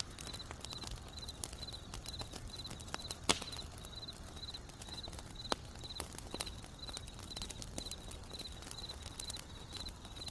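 Grass insects chirping in short high pulses about twice a second, steady throughout, over the crackling and popping of a burning wood fire. There is a loud pop about three seconds in and another about five and a half seconds in.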